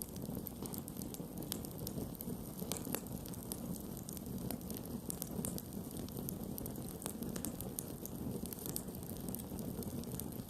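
Campfire burning: a steady low rush of flames with frequent sharp crackles and pops from the burning wood at irregular intervals.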